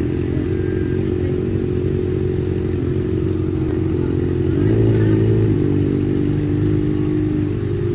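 Motorcycle engine idling steadily, its note shifting slightly about halfway through.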